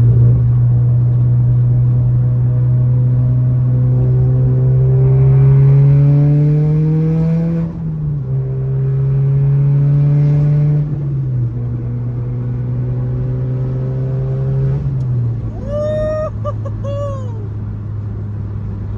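Volkswagen Jetta's engine pulling under acceleration: its pitch climbs, drops sharply at a gear change, climbs again and drops at a second shift, then holds steady at cruise. Near the end a few short squeaky chirps rise and fall over the engine.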